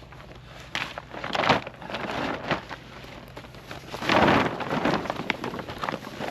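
Heavy 12 mil plastic tarp being handled and unfolded, rustling and crackling in irregular swishes, with a longer, louder flap about four seconds in.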